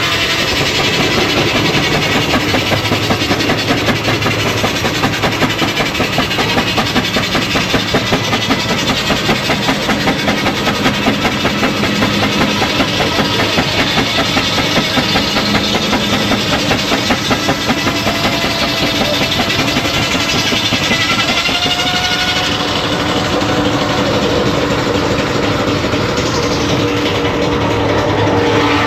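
Engine running with a rapid, even beat, easing a little in the last third.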